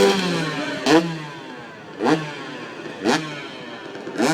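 Motorcycle engines: an engine note falls away at the start, then short, sharp rising revs come about once a second.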